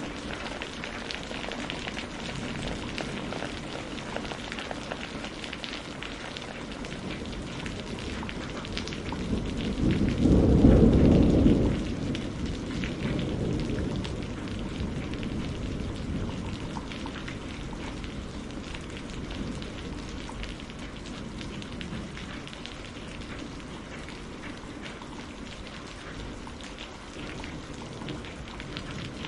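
Steady rain pattering on a greenhouse roof, with a low roll of thunder that builds about nine seconds in, peaks over the next few seconds and fades away.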